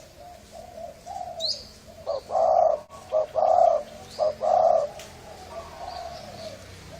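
Spotted dove (cu gáy) of the 'thổ rền' type cooing. A few soft notes come first, then three loud, deep coos about a second apart around the middle, trailing into softer cooing near the end.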